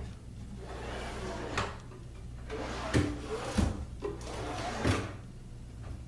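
Wooden shop-cart drawers sliding in and out on their drawer slides several times, each run ending in a knock or thump as the drawer shuts.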